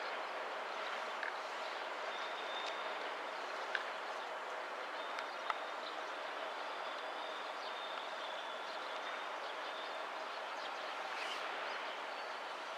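Train rolling along the rails: a steady rumbling noise with a faint, intermittent high whine from the wheels and a few sharp clicks.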